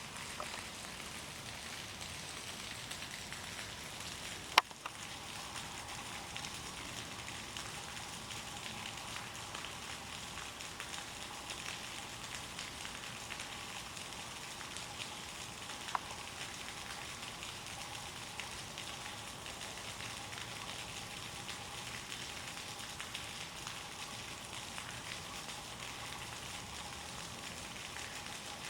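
Steady hiss of water, as from rain or rushing floodwater, with one sharp click about four and a half seconds in and a fainter one near sixteen seconds.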